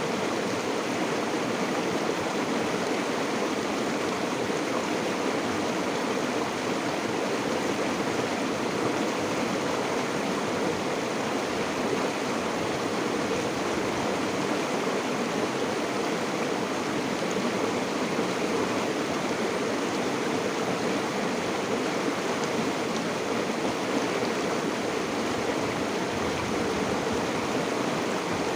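Water of a stream or river flowing and splashing over rocks, a steady rushing sound.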